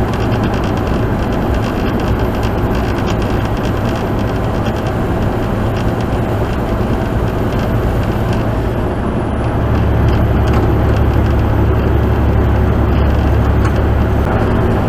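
Truck engine and tyre noise heard from inside the cab while driving, a steady low drone that grows louder about ten seconds in.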